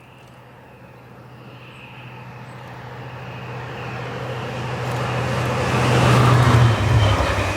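Diesel locomotive hauling a passenger train, approaching with a steady low engine hum that grows steadily louder, then drops in pitch near the end as it passes.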